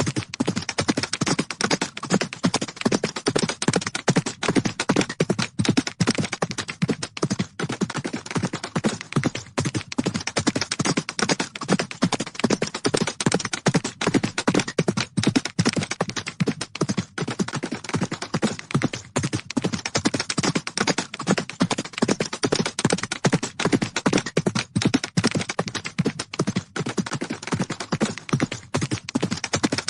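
Horses galloping: rapid, continuous hoofbeats.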